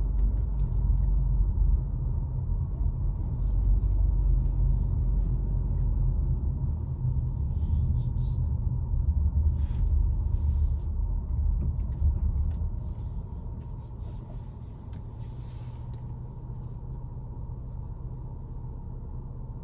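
Car driving on the road: a steady low rumble of engine and tyres. About twelve seconds in it drops off to a quieter low hum.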